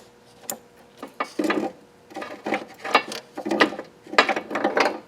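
Hand socket ratchet clicking in four short bursts of rapid pawl clicks as it is worked back and forth on a fastener.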